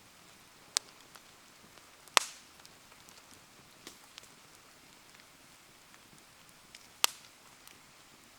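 Wood bonfire crackling, with three sharp pops (the loudest a couple of seconds in) and scattered faint ticks over a steady hiss of falling rain.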